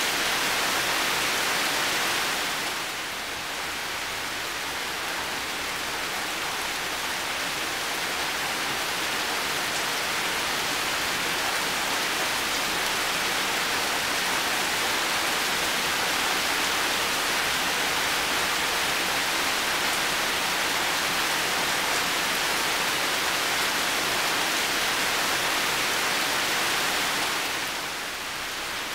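Heavy rain falling steadily, a dense, even hiss. It drops a little in level about three seconds in and again near the end.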